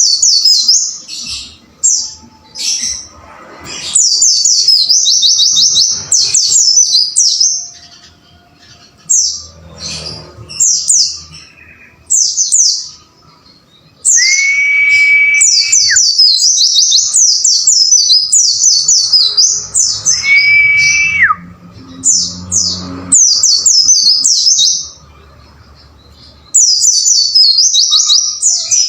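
White-eye (pleci) singing in bursts of rapid, high-pitched downslurred chirps, the fast 'wucit wucit' chatter used as master song for training caged birds. Twice, about halfway through and again some six seconds later, a longer, lower steady whistle sounds beneath the chirping.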